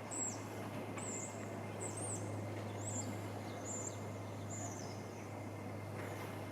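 A small bird chirping again and again, short high chirps a little under a second apart, over a steady low hum and background rumble.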